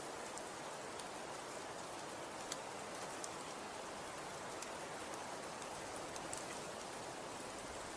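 Snow falling: a steady soft hiss with occasional faint ticks of flakes landing.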